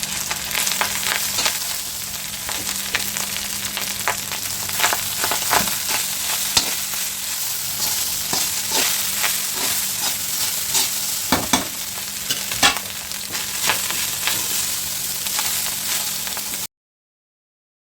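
Fried rice and vegetables sizzling in butter in a pan while a spatula stirs and scrapes through it, with frequent short scrapes and clicks over the steady sizzle. The sound cuts off abruptly near the end.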